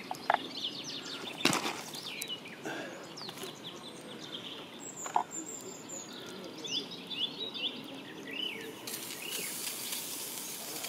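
Birds chirping in short descending notes over a steady hiss, with a few sharp pops from the campfire.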